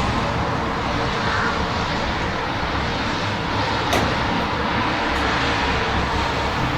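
Steady rain with the low hum of city traffic underneath, and one sharp tick about four seconds in.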